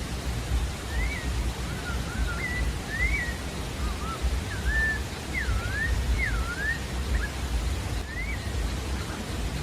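Sabiá-da-várzea thrush singing: a run of short, clear whistled notes that slide up and down, then one more phrase near the end, over a steady low rushing noise.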